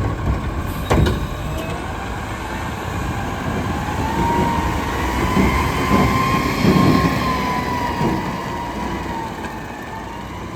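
Diesel Autocar front-load garbage truck running and driving, with a low rumble and a whine that climbs in pitch, holds, then falls away near the end. There is a sharp knock about a second in.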